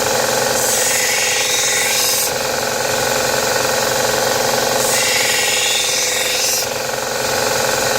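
Electric grinder running steadily, with a hiss of saw-blade steel being ground against it coming in for about a second and a half roughly every four seconds.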